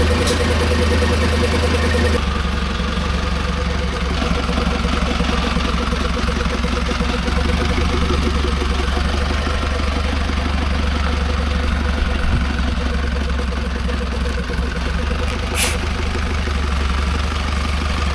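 Camper's diesel engine idling steadily, running again after years of disuse. There is a brief sharp high sound near the end.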